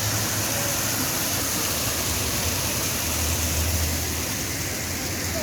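Steady rush of running water, with a low rumble that swells and fades underneath.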